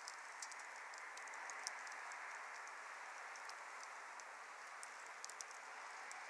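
Wood fire burning with a steady hiss of flame and many small, irregular crackles and pops, one a little louder about a second and a half in.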